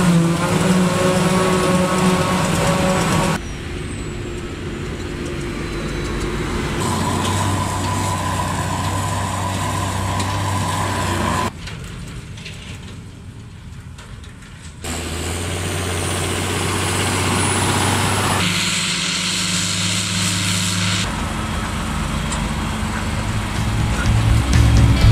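Diesel engines of silage-harvesting machinery (tractors and a forage harvester) running steadily. The sound changes abruptly every few seconds from one machine to another, with a quieter stretch about halfway through.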